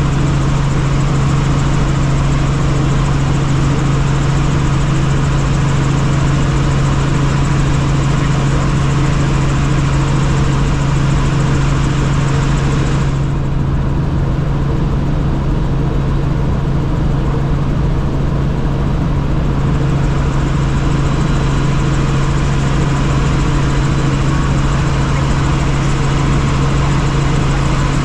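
Helicopter in flight: a steady, loud low drone with constant hiss from the rotors and engine. The higher hiss drops away for several seconds about halfway through, then returns.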